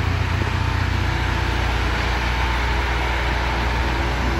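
Bentley Continental GT's twelve-cylinder engine idling steadily with an even low hum.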